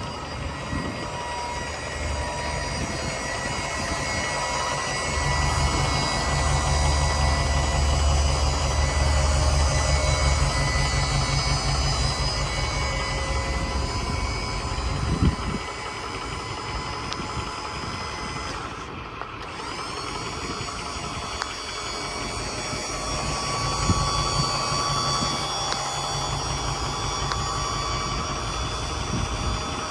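Ford 6.4L V8 diesel engine of a Ford F-550 Super Duty dump truck running, louder through the first half, then easing and picking up again near the end, with a single knock about halfway through.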